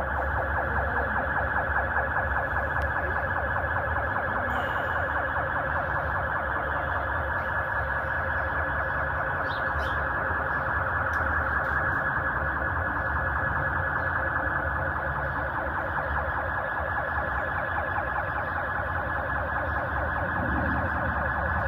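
Electronic siren warbling rapidly and continuously, over a low rumble.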